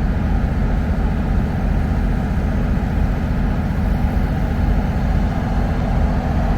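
Diesel engines of EMD F-unit locomotives idling with a steady drone, a deep rumble under a constant hum.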